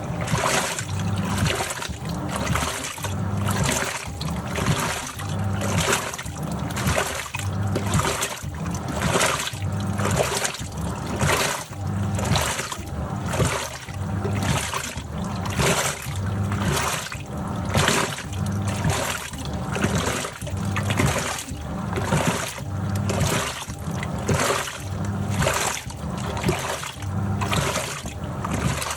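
Top-loading washing machine agitating a wash load, its drum turning back and forth so the water sloshes and splashes in an even rhythm of about one swell a second.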